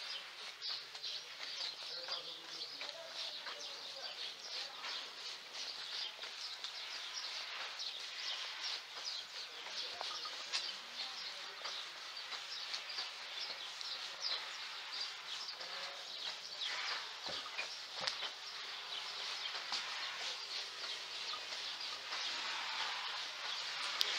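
Birds chirping: many short, overlapping chirps in an irregular, busy chorus.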